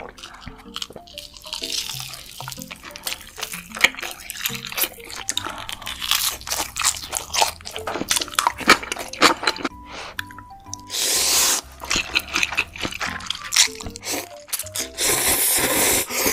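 Close-miked eating: crisp crunching bites and chewing, in quick irregular clicks, over soft background music with a simple melody. Two longer, louder stretches of crunching come about eleven seconds in and near the end.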